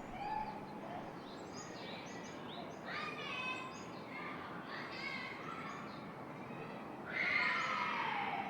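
Small birds chirping in many short, high notes over a steady rush of wind. About three seconds in, and again near the end, a louder call rings out; the one near the end falls in pitch.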